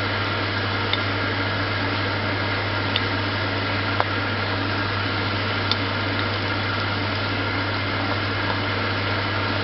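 Steady fan-like hum with a low drone and even hiss from the stove while the stir-fry cooks in a large wok, with a few faint sharp clicks scattered through it.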